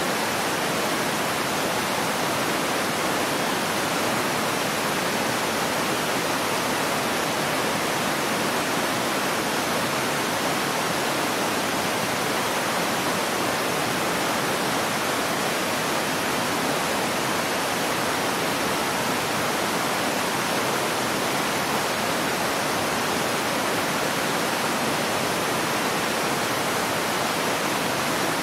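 River water rushing and flowing, a steady, even noise without changes.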